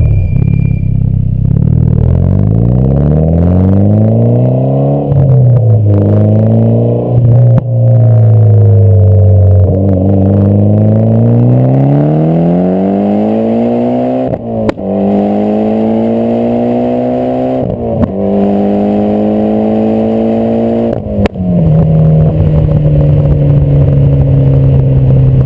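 Mitsubishi Lancer Evolution X's turbocharged four-cylinder through a test pipe and AMS cat-back exhaust, pulling through the gears. The engine note climbs, then drops at each of several upshifts, and holds steady near the end.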